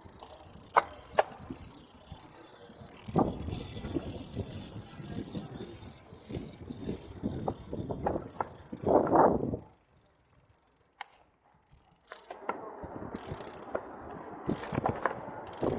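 Road bicycles being ridden along city streets: tyre and road noise with scattered sharp clicks from the bikes, swelling to a louder rush a little past the middle, then dropping almost to silence for about two seconds before picking up again.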